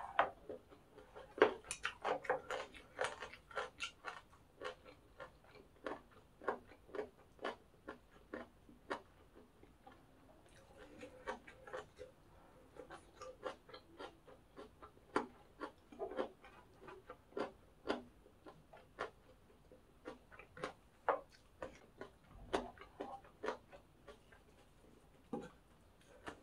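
Close-miked chewing of crunchy pork-cartilage fried rice: a steady run of quick, irregular crunching clicks, two or three a second.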